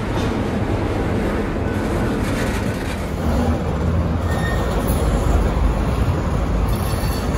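Freight train of flatcars loaded with waste containers rolling past at close range: a steady rumble of steel wheels on the rails, a little louder about three seconds in.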